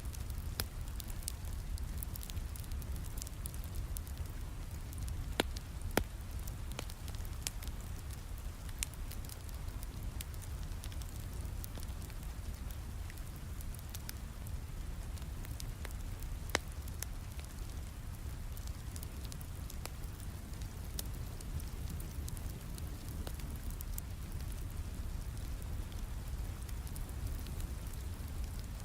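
Steady rain with a wood fire crackling over it. Sharp pops are scattered through, the loudest about five and six seconds in and again past sixteen seconds.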